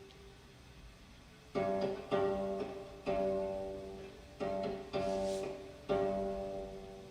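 Slow dance accompaniment music on a plucked string instrument: after a quiet moment, six plucked notes about a second apart, each ringing and dying away.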